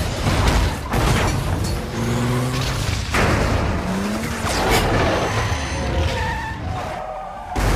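Car tyres skidding and engines running in an action-film sound mix, with a few sharp impacts along the way.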